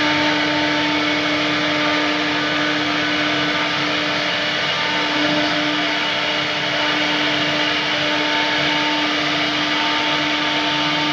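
CNC wood router spindle running steadily as it carves wood, a constant high-pitched whine over a dense cutting hiss.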